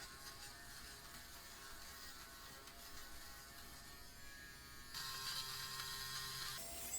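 A small electric motor humming steadily and faintly. Its sound changes abruptly about five seconds in, turning brighter and hissier, and changes again shortly before the end.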